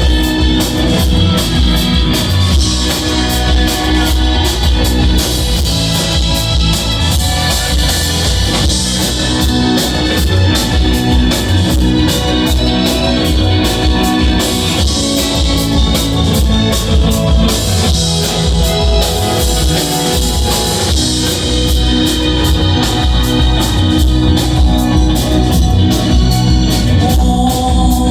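Live rock band jamming: electric guitar over bass, drum kit and keyboard, played loud and continuous, with no singing.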